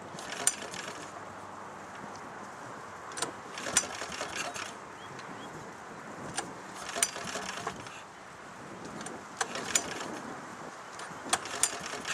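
Lawn tractor engine running at a distance, a steady low hum, with a few sharp clicks and knocks scattered throughout.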